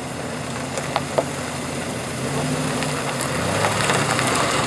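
A car engine running at low speed, growing louder from about two seconds in as the car comes closer, with two short clicks about a second in.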